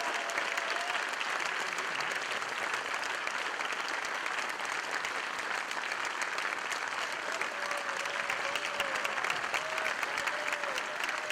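Concert audience applauding steadily and densely, with a few wavering shouts or whoops heard above the clapping late on.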